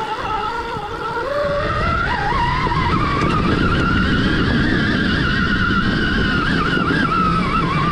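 Stark Varg EX electric dirt bike's motor whining. It climbs in pitch as the bike speeds up over the first few seconds, then holds high and wavers, over a steady low rumble.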